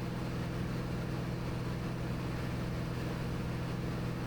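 Cirrus SR22T's turbocharged six-cylinder engine and propeller droning steadily in cruise, heard inside the cabin.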